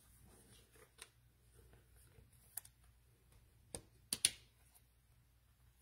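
Faint, scattered clicks and ticks of trading cards being handled, with a sharp close pair of clicks about four seconds in.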